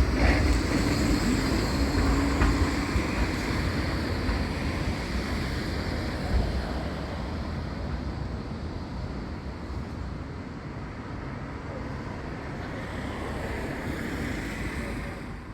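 A Blackpool tram running past and fading away, its rumble loudest at first and dying down steadily, with wind on the microphone.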